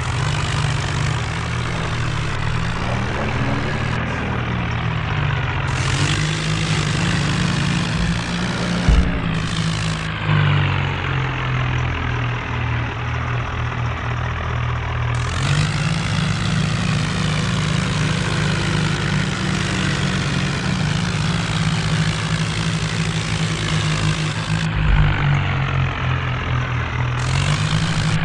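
John Deere tractor's diesel engine running steadily, its pitch rising and falling several times as it is revved.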